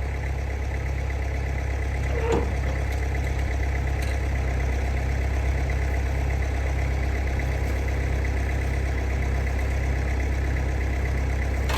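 A large tractor engine idling steadily, with a deep, even hum and one brief louder blip about two seconds in.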